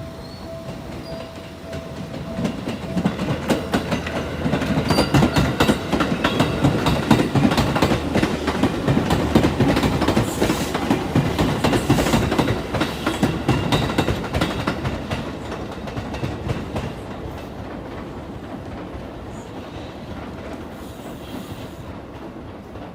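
Seibu 101-series electric train passing, its wheels clacking rapidly over the rail joints. The sound builds over the first few seconds, is loudest through the middle, and fades away over the last several seconds.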